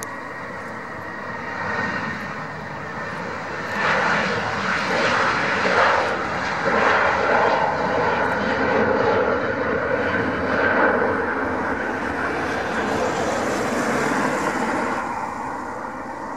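Jet engine noise of a Boeing 737-700 with its twin CFM56-7B turbofans passing at power. The noise swells about four seconds in and stays loud, with a steady whine running through it, then eases off near the end.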